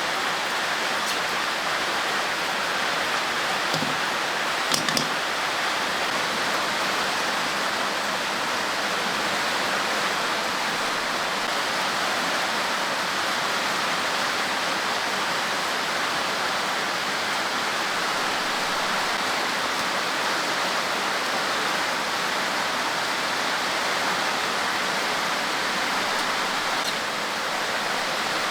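Steady hiss of rushing water, such as rain or a stream, unchanging throughout, with a couple of faint ticks about five seconds in.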